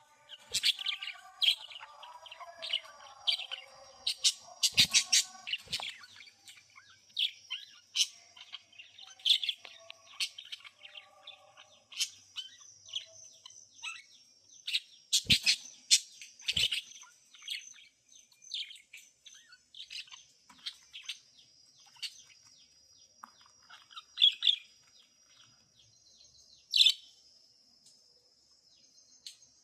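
Budgerigars chirping and chattering in irregular bursts of short, sharp chirps, busiest in the first few seconds and sparser later, with a few loud single chirps near the end. A faint steady high tone runs underneath.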